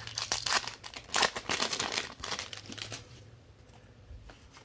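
Crinkling and tearing of a trading-card pack's wrapper as it is opened, for about three seconds, then it dies away.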